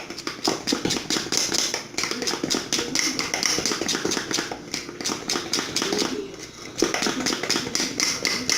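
Bolinho de chuva batter being beaten by hand in a bowl: a fast, even run of knocks and scrapes, about five or six a second, with a brief pause about six seconds in.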